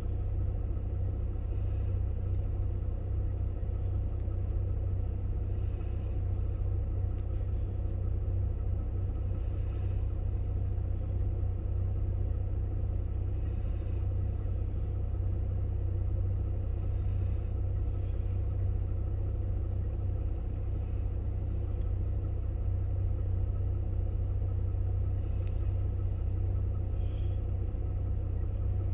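A steady low rumble that holds even throughout, with faint short high chirps every few seconds.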